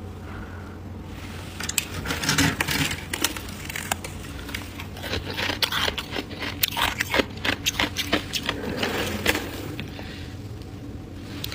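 Freezer frost crunching and crackling in a dense run of sharp crunches, which thins out near the end. A steady low hum runs underneath.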